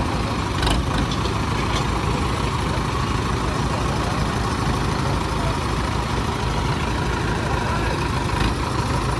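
Heavy diesel tractor engines running steadily during a tractor tug-of-war, with a brief click about a second in.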